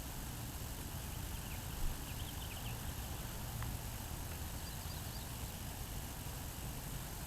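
Outdoor ambience: a steady low rumble with a few faint, short high chirps, twice in small clusters, and one faint click about halfway.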